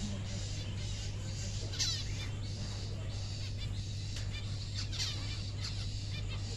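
Cockatiel chirping in short calls, the loudest about two seconds and five seconds in, over a steady low hum.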